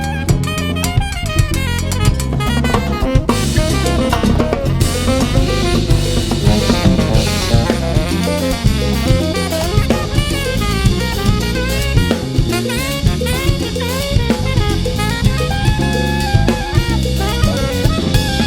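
Jazz combo playing an uptempo tune with the drum kit to the fore: busy snare, rimshot and bass-drum strokes under a wavering lead melody, with cymbals washing in about three seconds in.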